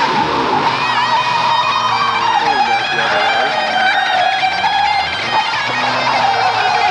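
Car tyres squealing in a long, unbroken, high screech that wavers in pitch, with the 1973 Ford Thunderbird's big-block V8 revving beneath during a burnout.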